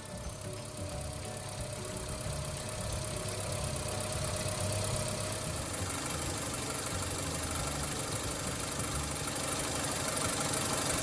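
BMW E92 engine idling, with a steady tone over the engine sound. This car's abnormal noise in Drive was traced to its pulleys: the alternator, idler pulley and belt tensioner.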